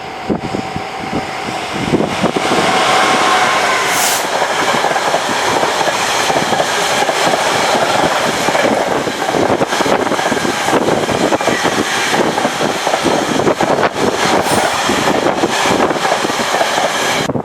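A train passing on the line, its wheel and running noise swelling over the first two seconds and then holding loud and steady.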